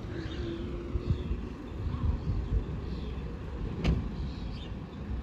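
Road vehicles running past with a steady low rumble, and one sharp click about four seconds in.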